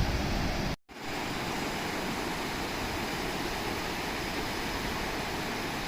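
Steady rushing of ocean surf breaking on the beach, cut off abruptly for a moment just under a second in, then resuming evenly.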